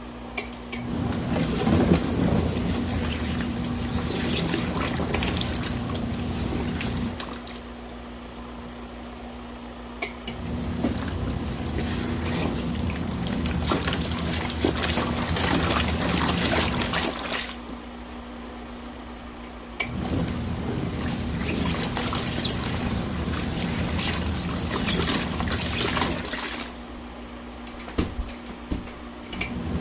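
Compact RV washing machine agitating a load in warm rinse water: the wash motor swishes the water for about six seconds, pauses for about three, and starts again, three times over. A steady hum continues through the pauses.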